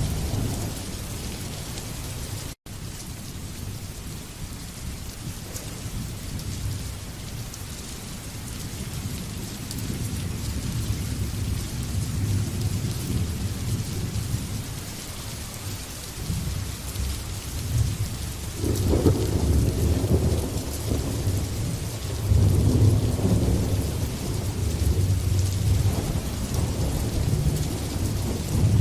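Steady heavy rain hissing, with low thunder rumbling underneath. Rolling thunder swells louder about two-thirds of the way in and again a few seconds later. There is a split-second gap in the sound about two and a half seconds in.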